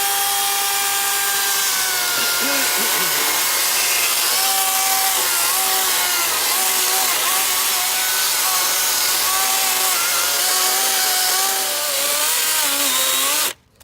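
DeWalt FlexVolt 60V brushless cordless chainsaw cutting into a solid log, its motor whine dipping and recovering in pitch as the chain loads up in the wood. It cuts off suddenly near the end when the trigger is released.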